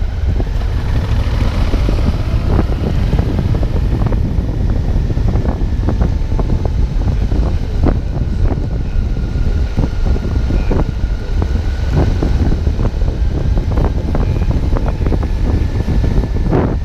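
Wind rumbling on the microphones of cameras mounted on a Suzuki V-Strom 650 motorcycle under way, with its V-twin engine running underneath. Short knocks come every so often, several in quick succession near the end.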